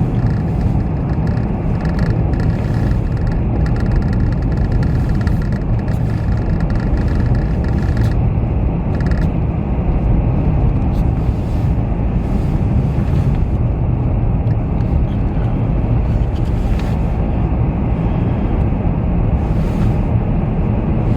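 Steady low rumble of a car's tyres and engine heard from inside the cabin while driving on a snow-covered highway, with a faint high whine for about the first eight seconds.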